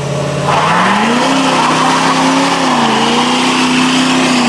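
Muscle car's engine revs up about half a second in and is held at high revs, dipping briefly near the middle, while the rear tyres spin with a steady hiss and squeal: a burnout.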